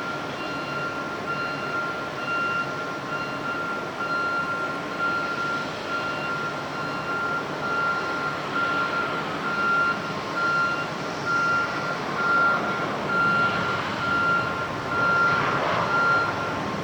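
Vehicle reversing alarm beeping steadily, one high electronic beep roughly every three-quarters of a second, over a rushing background noise that swells in the last few seconds; the beeping stops near the end.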